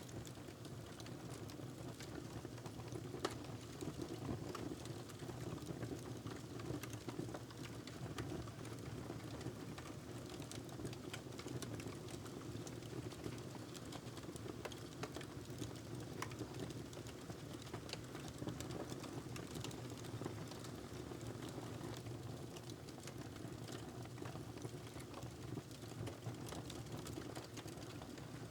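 Wood fire crackling in a fireplace: frequent small, irregular pops and snaps over a steady low rumble.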